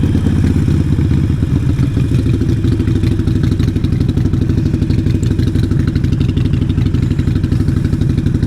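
Harley-Davidson Sportster 883 Iron's air-cooled V-twin running through a Vance & Hines exhaust at a steady low speed, a deep, rapid, even pulse with no revving.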